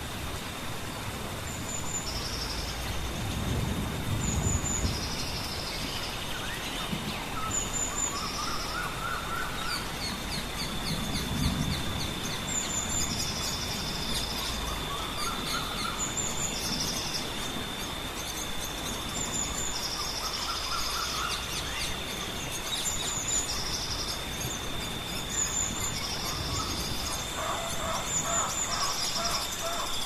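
Birds calling over an even hiss: short high chirps repeating every second or two, and a lower rising call every few seconds. A steady thin high tone runs underneath, and low rumbles come about four and eleven seconds in.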